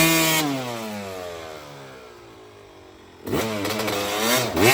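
Two-stroke dirt bike engine at high revs, its pitch and level falling away over about two seconds, then revved hard again about three seconds in with quick throttle blips that rise and drop twice near the end.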